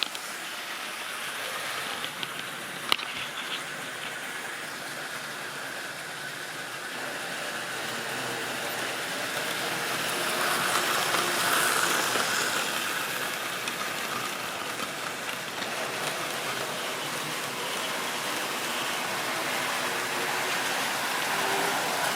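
Model railway train running on its track: a steady rattle of wheels and rolling stock, growing louder as it comes closest about eleven seconds in. There is one sharp click about three seconds in.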